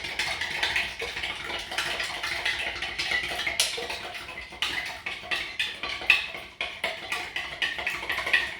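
Vigorous stirring of baking soda into water in a container: a fast, uneven run of clinks and knocks as the stirrer hits the sides of the vessel.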